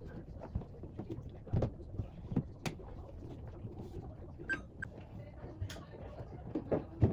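Irregular light knocks and clicks with a few louder thumps, as containers and bottles are handled and set down in a refrigerator, the loudest thump near the end.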